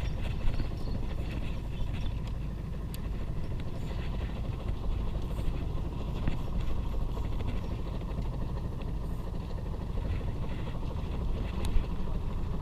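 Steady low rumble of a fishing boat at sea, with a couple of sharp clicks, one a few seconds in and one near the end.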